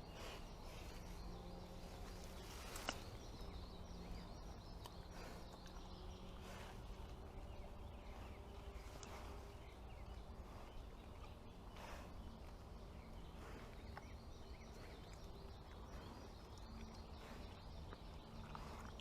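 Faint, steady outdoor background noise from a trail camera's microphone, with a few soft clicks, the clearest about three seconds in.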